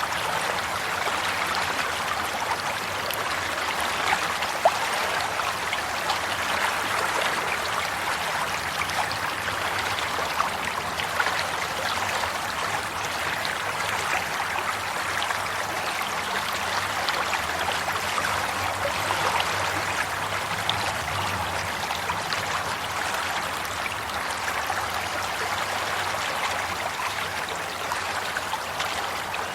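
Flowing water of a stream running steadily over stones, with fine trickling and splashing and a few slightly louder splashes.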